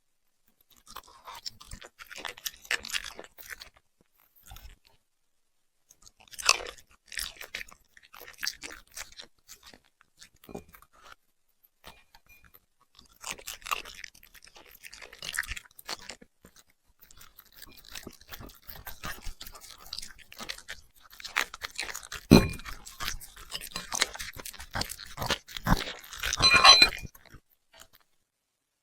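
A puppy chewing and crunching food in irregular bursts of crisp crackles, with short pauses between mouthfuls; the crunching is loudest near the end.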